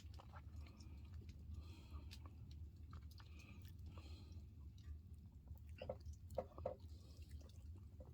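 A person chewing banana: faint, soft mouth sounds, with a few sharper clicks about six seconds in.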